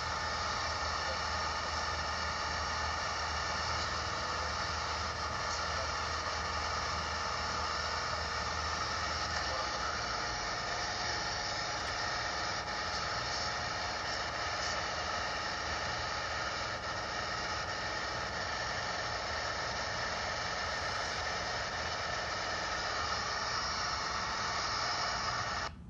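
Light aircraft's engine running steadily, heard from inside the cabin. It cuts off abruptly at the very end.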